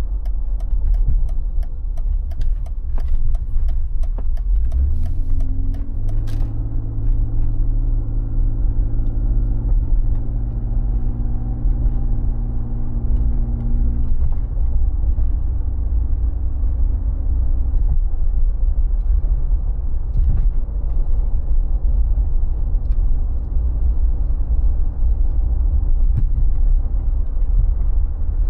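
Mercedes G 36 AMG's 3.6-litre straight-six running under way, with a steady low rumble of engine and road noise. About five seconds in, a clear engine tone rises and holds until around fourteen seconds, then fades back into the rumble. Sharp clicking runs through the first few seconds.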